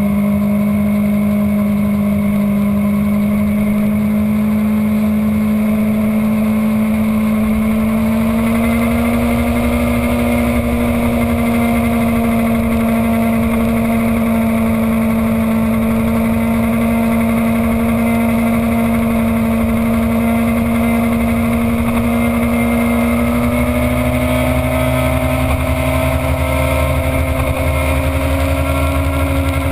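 Sport motorcycle engine running at high revs, heard from on board the bike. The engine note holds steady, rising a little in pitch about eight seconds in and again near the end.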